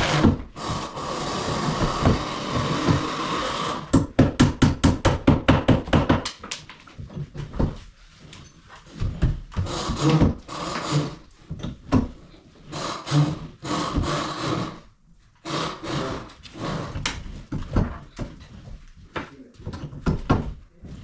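Hand-tool work on wood. A continuous scraping rubs on for a few seconds, then comes a quick run of strokes, about eight a second. After that, irregular knocks and scrapes.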